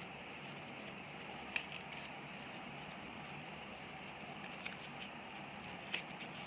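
A few faint, short rustles and crinkles of a paper sheet being folded by hand, over a steady background hiss.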